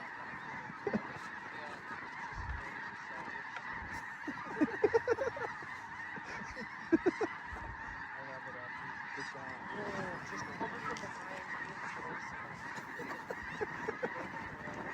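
A large flock of snow geese calling, a dense steady chatter of high honks and yelps. Louder single honks stand out about four to five seconds in and again around seven seconds.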